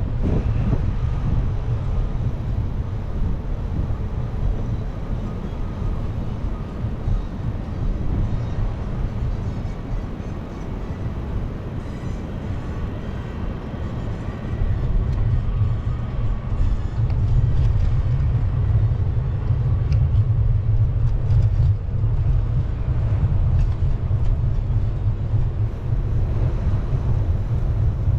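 Steady low rumble of wind on the microphone and city traffic noise while riding a bicycle, growing louder about halfway through.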